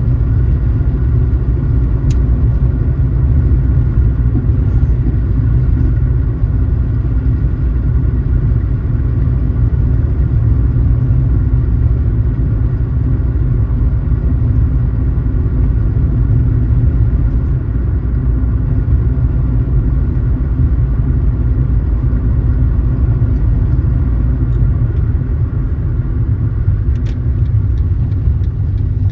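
Car driving at a steady speed: a steady low rumble of engine and tyres on the road.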